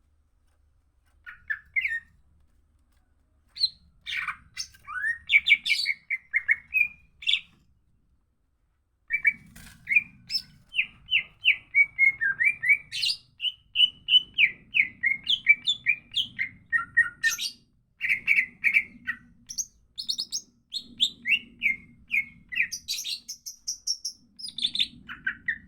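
Greater green leafbird (cucak ijo) in full song: rapid runs of chirping, sliding whistled notes. It starts with a few short phrases separated by pauses, then sings almost without a break from about a third of the way in.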